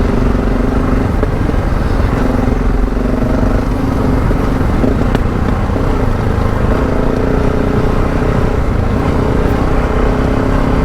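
Adventure motorcycle engine running steadily while riding off-road, its note wavering slightly in pitch over a dense low rumble.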